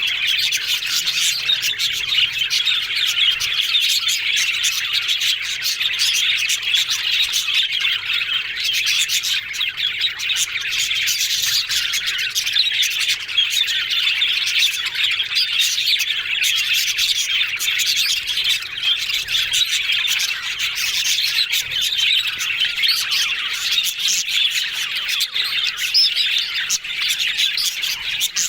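Budgerigars chattering and warbling, a dense, unbroken stream of fast chirps and squawks.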